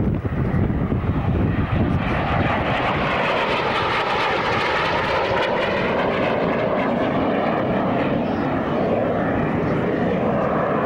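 Fixed-wing display aircraft flying past, its engine noise swelling about two seconds in and then holding steady, with wind buffeting the microphone at the start.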